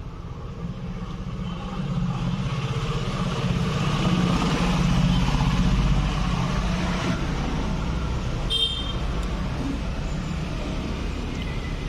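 Electric power-seat backrest recline motor of a Hyundai Tucson running with a steady whirring hum as the repaired seat switch is operated, getting louder about two seconds in. The hum is the sign that the repaired switch now drives the backrest again.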